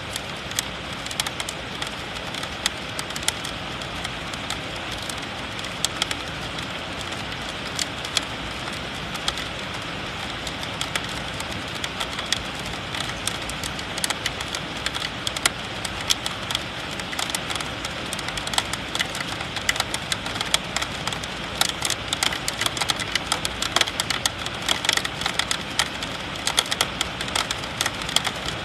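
Heavy rain falling steadily with an even hiss, and many sharp taps of drops striking a hard surface close by, coming more thickly in the last third.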